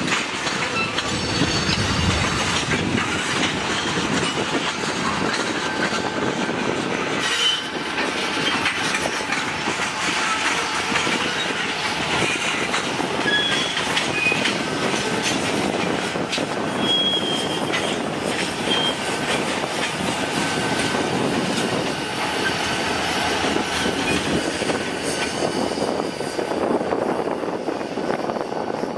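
Norfolk Southern diesel freight train with tank cars rolling past, a steady rumble of locomotives and wheels with clicks of wheels over the rail joints. Brief high-pitched wheel squeals come a few times through the middle.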